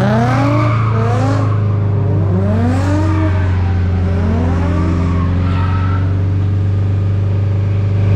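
Drift car engine revving in repeated rising sweeps over a steady low drone during a drift run.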